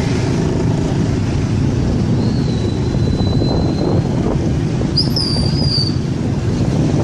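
Steady low rumble of a moving vehicle heard from on board, with wind on the microphone and a few thin, high whistling squeaks partway through.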